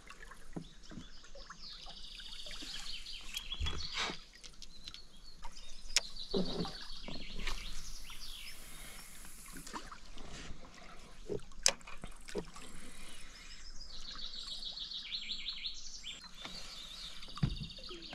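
Birds singing in runs of quick, high repeated notes, over a few sharp knocks and clicks, the loudest about twelve seconds in.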